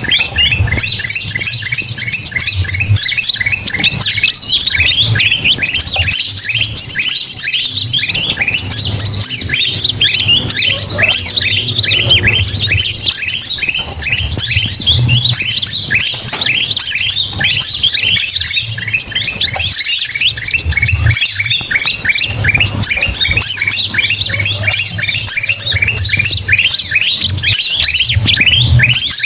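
A dense chorus of many small birds chirping and squawking at once, with sooty-headed bulbul calls mixed in: a bird-lure recording. The chirps come thick and fast without pause, over a low hum.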